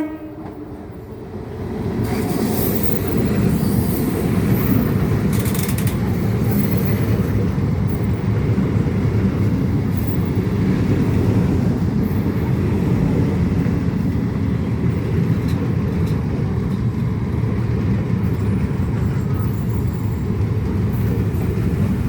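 Indian suburban local train running, a steady loud rumble of wheels and carriage heard from its open doorway, swelling over the first two seconds.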